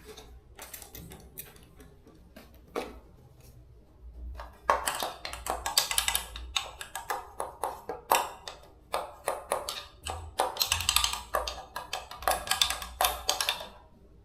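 Quick, irregular taps and scrapes of hand-tool work on fan motor parts, a few scattered clicks at first, then a dense rapid run from about five seconds in that stops just before the end.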